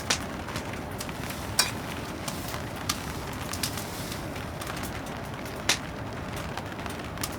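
Wood fire crackling, with several sharp pops from the burning wood, over a steady hiss of rain.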